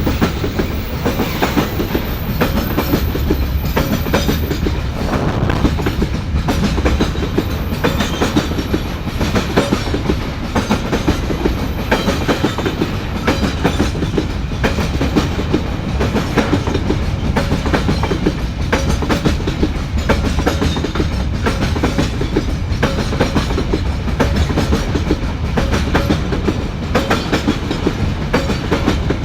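A train passing close by at a level crossing, its wagons rolling by in a continuous clickety-clack of wheels over rail joints over a steady low rumble.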